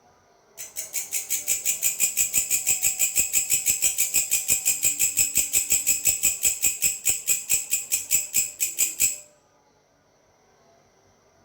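A grasshopper stridulating: a loud, high-pitched rasping call pulsed evenly at about five or six strokes a second, starting about half a second in and stopping suddenly after roughly eight and a half seconds, followed by a natural pause with only a faint high hiss of background insects.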